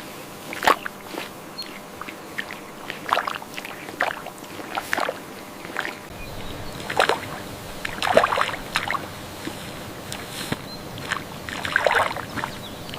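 Water splashing and sloshing in irregular bursts, with louder splashes about a second in and again around seven, eight and twelve seconds in.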